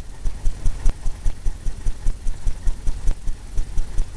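Fan brush loaded with oil paint tapping and scrubbing on a stretched canvas, a rapid, even series of low, drum-like thumps about five a second.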